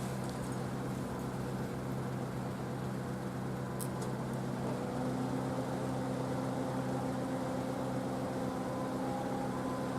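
Railway locomotive running at the station: a steady hum with several held low tones, and a higher set of tones joining about five seconds in.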